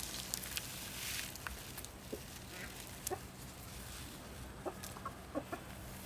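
Chickens clucking: a few short, separate clucks, more of them in the second half, with a few light clicks in between.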